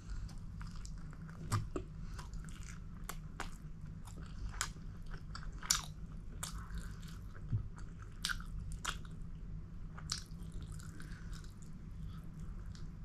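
Close-miked chewing and biting of a pork momo dumpling: irregular wet mouth clicks and smacks, a few sharper than the rest, over a steady low hum.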